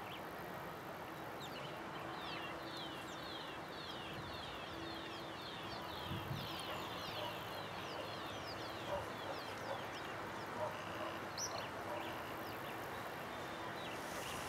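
A bird giving a rapid run of short, high, falling chirps, about four a second, that stops about halfway through, over a steady low rushing noise.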